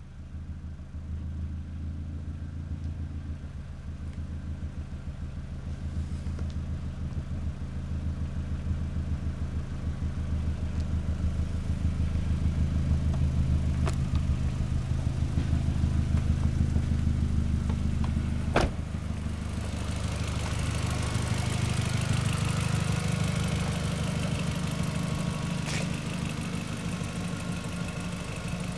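Volkswagen Golf 4 GTI engine running steadily at low revs through an aftermarket Borla exhaust, getting gradually louder over the first half. There is one sharp click about two-thirds through, and more hiss over the engine in the last third.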